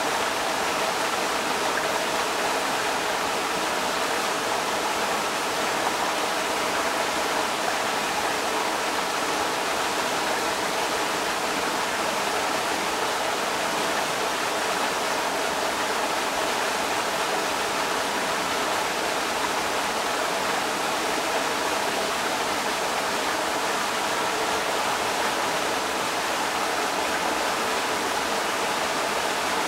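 Creek water rushing steadily over rocks, a constant even rush.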